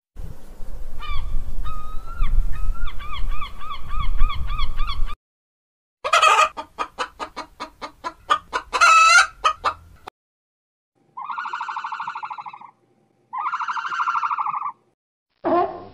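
A run of bird calls. First, small shorebirds peep in quick repeated notes over a low rumble. Then chickens cluck in a quick series, with louder squawks, and two long, buzzy honking calls of about a second and a half each follow.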